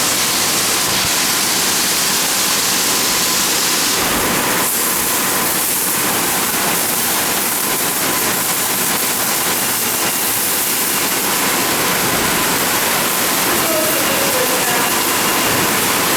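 Steady rush of water spraying over the car in a BayWash I5 soft-touch automatic car wash, heard from inside the car. The hiss changes a little about four seconds in.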